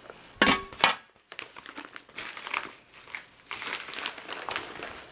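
Packaging crinkling and rustling as a part is unwrapped by hand, with two sharp loud crackles under a second in, then a run of denser crackling.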